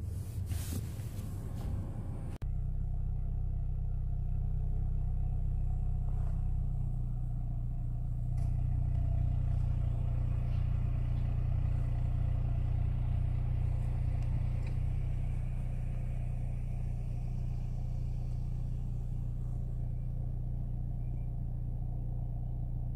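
A car engine idling steadily, a low even hum that comes in abruptly about two and a half seconds in.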